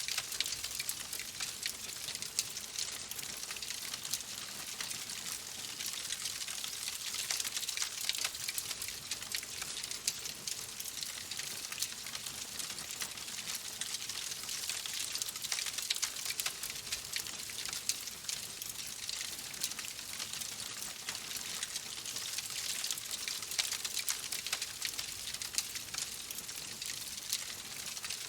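Steady rain falling, an even hiss with many small drops ticking and pattering throughout.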